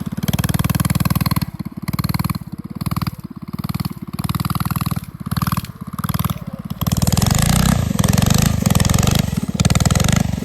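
Small gas mini bike engine running, revving up and dropping back in several short bursts as the throttle is worked on and off, then held at higher revs for a few seconds near the end.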